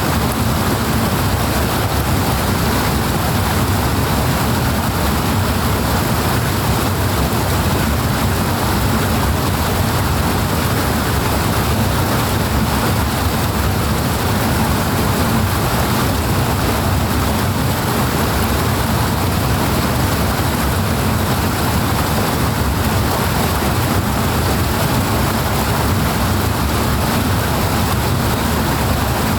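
Loud, steady rush of flowing water, unbroken and even throughout.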